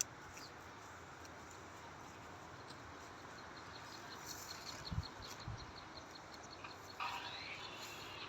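Faint rural outdoor ambience: a run of quick high-pitched ticks in the middle, two low thumps about five seconds in, and a short chirping call near the end.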